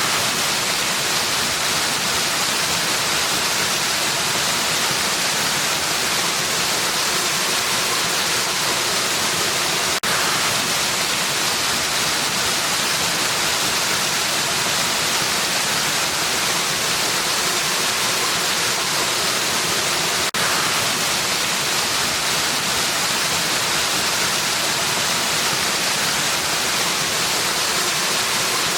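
Steady, even rushing of a waterfall, a dense hiss strongest in the higher range. A brief dip with a faint click comes twice, about ten seconds apart.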